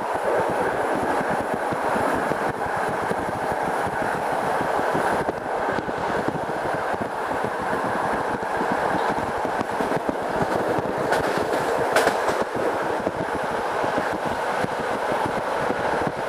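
Steady running noise of a passenger train coach at speed, wheels rolling on the rails, heard from inside the carriage. A few sharp clicks come about eleven to twelve seconds in.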